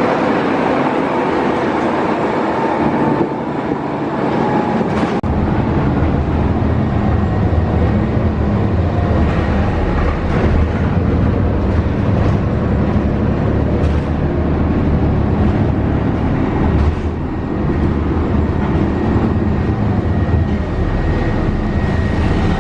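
Steady rumble and running noise of a moving vehicle heard from inside it. A deeper low rumble comes in about five seconds in and stays.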